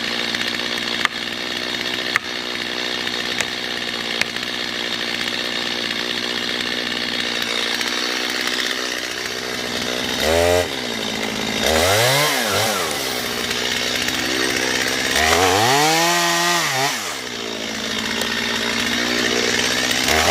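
Chainsaw held at steady high revs, cutting into a tree trunk to fell it, with a few sharp clicks in the first few seconds. From about halfway on, the throttle is revved up and let back down about four times.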